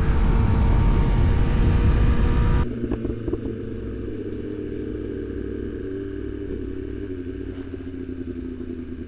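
Sport motorcycle riding with loud wind rush over its engine, which cuts off sharply a little under three seconds in, leaving a quieter, steady inline-four engine hum at low speed with a few light clicks.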